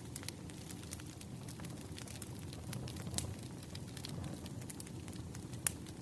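Wood fire burning with irregular crackles and pops over a low steady rumble, one sharper pop near the end.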